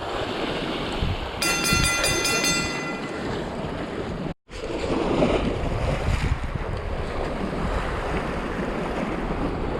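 Strong wind buffeting the microphone over surf washing against the rocks, with a brief high ringing tone about a second and a half in and a momentary cut to silence just after four seconds.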